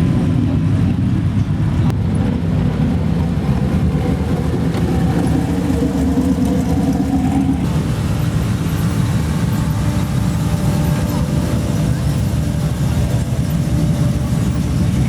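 Car engines running as vehicles drive slowly past, a steady low engine drone whose tone changes about halfway through as one car gives way to the next.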